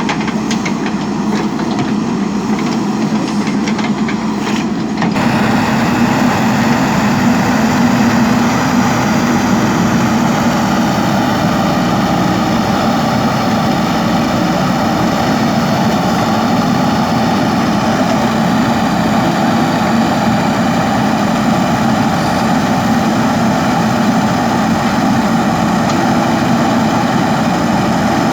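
JCB backhoe loader's diesel engine running steadily, with faint clanking over the first few seconds. The engine gets louder about five seconds in and holds there.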